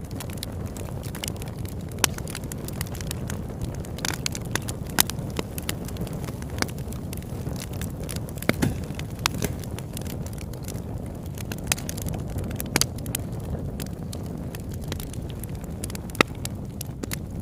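Campfire burning: a steady low rush with irregular sharp crackles and pops of burning wood.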